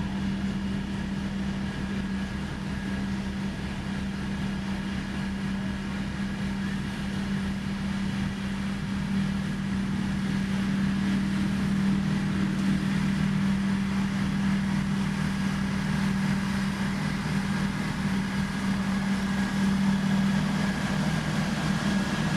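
Diesel engine of heavy road-building machinery running steadily: a deep even drone with a faint high whine over it, growing somewhat louder partway through.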